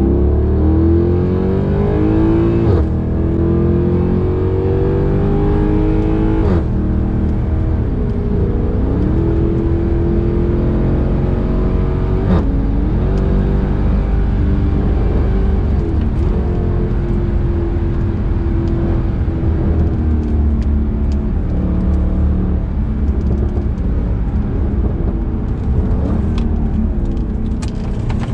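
Mercedes-Benz C63 AMG Edition 507's naturally aspirated 6.2-litre V8 pulling hard, its pitch climbing and then dropping back at each gear change, four times in the first half. It then runs at a steadier pitch.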